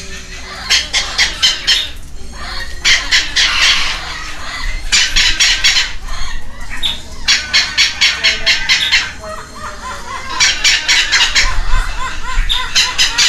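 Baby red-lored Amazon parrots begging while being hand-fed: about six short bursts of rapid, rhythmically repeated squawks, each lasting about a second.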